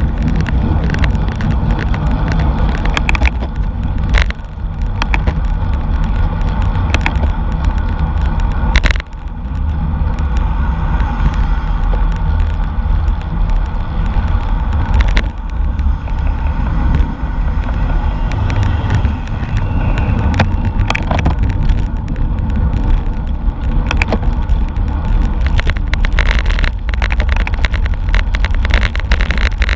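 Wind buffeting a microphone on a moving racing bicycle, a steady low rumble with road and tyre noise, broken by occasional sharp clicks.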